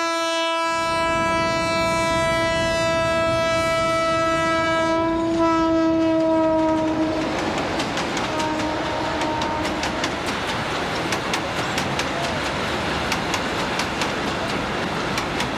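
Passenger train passing close by: its horn sounds one long, steady blast for about seven seconds, then the rumble of the carriages and a rapid clicking of wheels over the rail joints.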